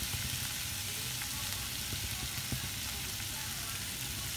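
Prawn roast masala sizzling in a kadai, a steady frying hiss over a low hum, at the stage where the prawns' own water has cooked off and the thick masala is roasting nearly dry.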